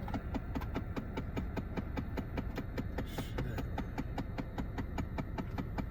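Steady rapid mechanical clicking, about five or six clicks a second, over a low rumble.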